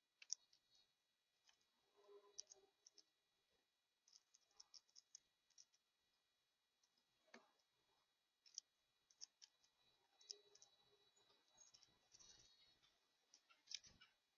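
Near silence with faint, scattered sharp clicks and a few quiet steady high tones.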